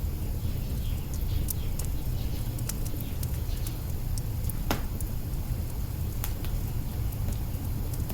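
Wood fire burning in an open hearth, with scattered sharp crackles over a steady low rumble and one louder pop about halfway through.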